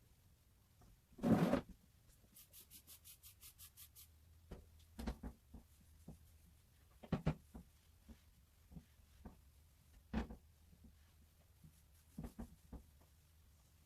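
A cabinet being cleaned by hand: one short spray hiss near the start, a quick run of rubbing strokes, then scattered light knocks and thumps of a hand and mitt against the cabinet doors.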